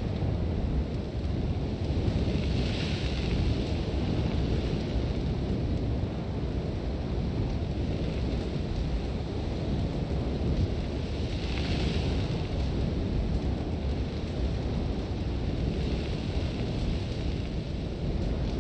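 Sandstorm wind blowing in a steady, heavy low rumble, with hissing swells of blown sand a few seconds in, about two-thirds of the way through and again near the end.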